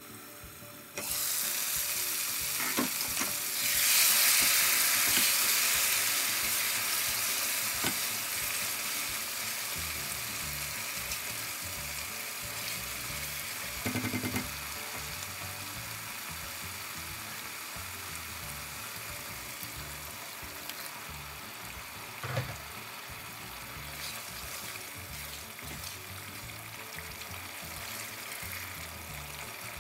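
Lamb and spice paste sizzling as it fries in a pan while being stirred with a spatula, a couple of light knocks against the pan. The sizzle jumps up about a second in, is loudest a few seconds later, then slowly dies down. This is the stage of cooking out the spices for a Bengali lamb curry on medium-high heat.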